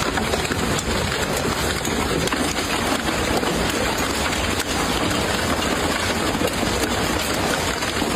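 Hailstorm: hailstones and rain pelting down hard in a dense, steady clatter of many small impacts.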